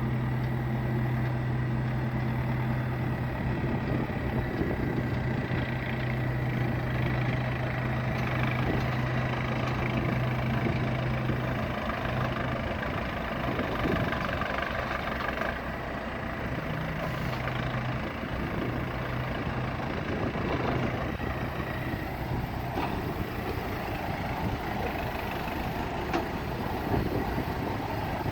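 Semi truck's diesel engine running, with a steady low hum that fades out about twelve seconds in.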